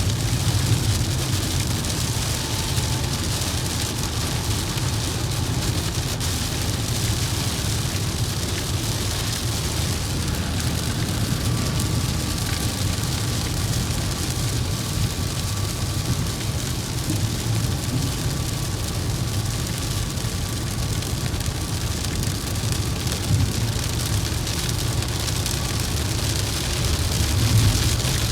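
Steady driving noise in the rain: a low rumble of tyres and engine under an even hiss of rain on the vehicle.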